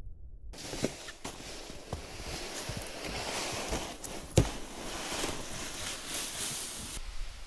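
Footsteps crunching through deep snow in a blizzard, with wind hissing across the microphone; a sharp knock about four seconds in is the loudest sound.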